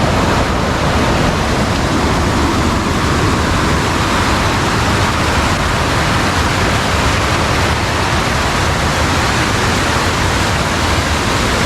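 Strong, fast-flowing water rushing steadily, a loud even roar of current.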